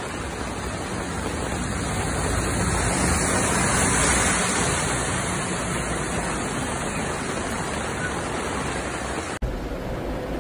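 Heavy rain and rushing floodwater, a dense steady hiss that swells about four seconds in as a small van drives through the flooded street throwing spray. Near the end it cuts abruptly to a quieter rain hiss with a low rumble.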